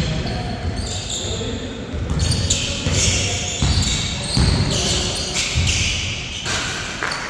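Basketball bouncing on a court floor during play, a run of low thuds roughly once a second.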